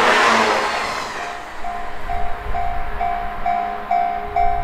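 A 185 series electric train's running noise fading away over the first second or so as it moves off. Then a clear ringing tone repeats at about two strikes a second, like a level-crossing bell, over a low rumble.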